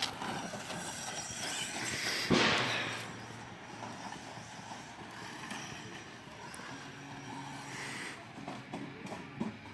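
Radio-controlled cars driving, a continuous whirring of motors and wheels, with a loud rushing burst about two seconds in.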